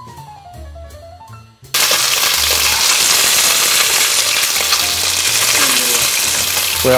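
Quiet background music, then about a second and a half in a loud, steady sizzle starts suddenly: boiled chicken wings searing skin-down in hot oil in a stainless steel pot.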